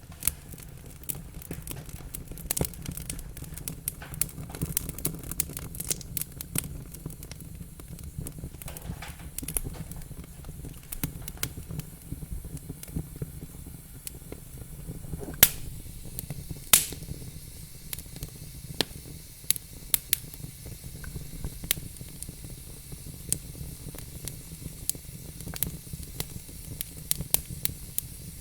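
Wood fire burning in a fireplace: a steady low rumble and hiss of flames with irregular sharp crackles and pops, two louder pops a little past halfway.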